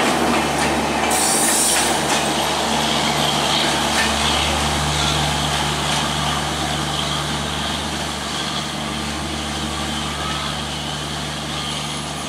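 Passenger coaches of an intercity express train rolling past on the rails, the wheel and track noise fading steadily as the last coach pulls away.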